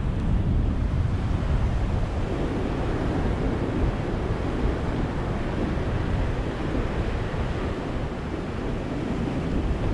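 Ocean surf: a steady, continuous wash of waves breaking and rolling in, with no distinct single crash.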